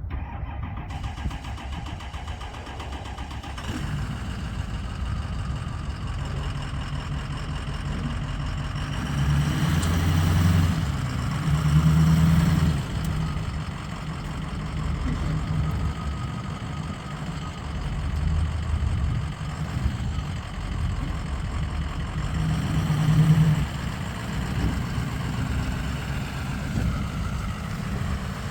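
2005 Ford F-350 pickup's engine idling, with a few brief revs: two about a third of the way in and one near the end.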